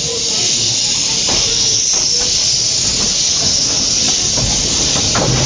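Steady, loud hiss of steam escaping from a Quarry Hunslet steam locomotive.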